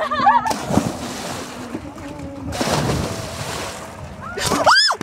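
People jumping into a pond: a big splash and churning water, then a second splash a couple of seconds later. Short shouts come at the start, and there is a loud rising-and-falling shriek near the end.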